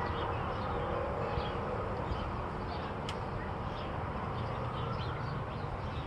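Faint, short high chirps of small birds scattered throughout, over a steady background hiss and low rumble.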